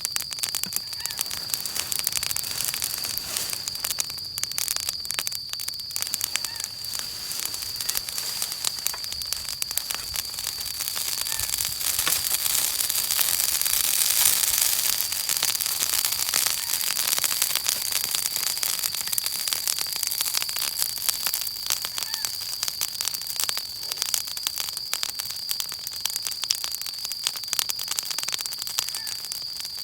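Wood bonfire crackling and popping steadily, over a hiss that swells for a few seconds around the middle. A steady high-pitched tone runs underneath.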